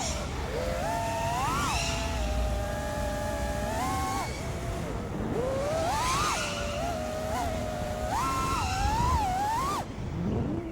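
FPV freestyle quadcopter's four brushless motors (Axis Flying AF227 1960kv spinning HQ J37 props) whining, the pitch sweeping up and down again and again as the throttle is punched and chopped, over rushing wind noise.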